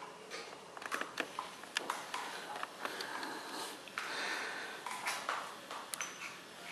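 Bullmastiff puppies snuffling and snorting while moving about, with scattered sharp clicks and knocks.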